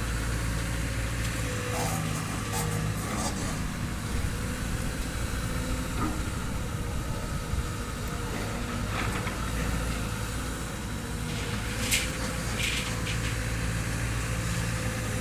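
Hydraulic excavator's diesel engine running steadily, with a few sharp metallic clanks of steel being handled, the loudest about twelve seconds in.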